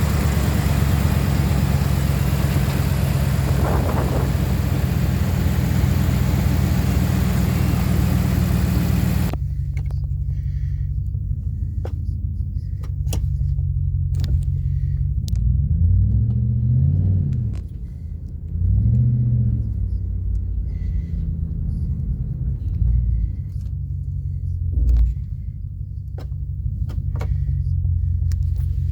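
A 2019 Ram 1500 Classic pickup's engine idling, revved briefly twice past the middle, each rev rising and falling in pitch. A steady hiss over the engine stops abruptly about nine seconds in.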